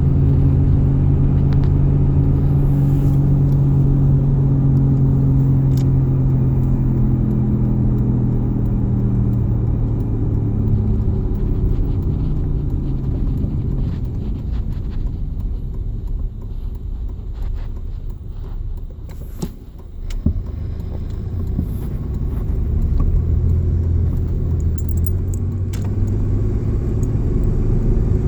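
Cabin sound of a 1998 Chevy S10 Blazer on the move: a low droning hum whose pitch slowly falls over the first dozen seconds, then gives way to a rougher rumble with scattered light rattles and one sharp click about twenty seconds in, before the hum returns near the end. It is a noise that developed recently, three weeks after the passenger CV axle was replaced, which the owner hopes is only road noise.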